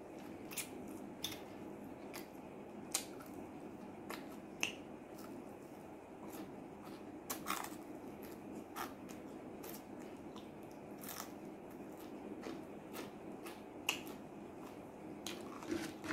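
Close-up eating of fried chicken: biting and chewing, with sharp crackling clicks at irregular moments, over a steady low background hum.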